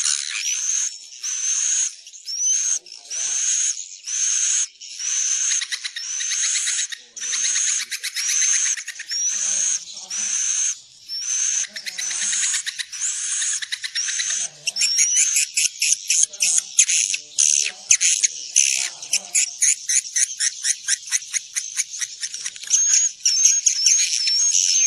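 Swiftlet lure calls for drawing edible-nest swiftlets into a nesting house: a dense run of high, buzzy chirps, about one a second, each ending in a rising sweep. About halfway through they turn into a fast rattle of clicks.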